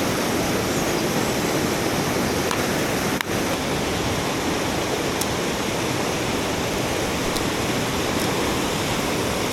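Mountain stream rushing over rocks close by: a steady, dense rush of water, broken only by a brief dip about three seconds in.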